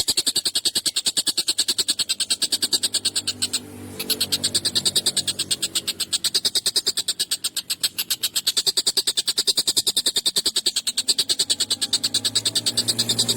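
Tengkek buto kingfisher calling in a rapid, harsh rattling trill, about ten notes a second. It breaks off briefly about four seconds in, then carries straight on.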